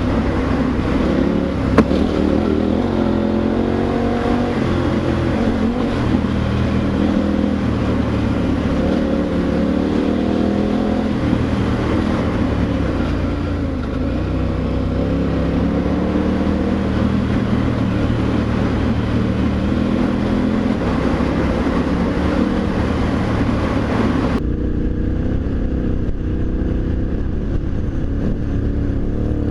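Adventure motorcycle engine running while riding, its pitch rising and falling with throttle and gear changes over rushing wind noise. A sharp tick comes about two seconds in, and about 24 seconds in the hiss above the engine drops away abruptly.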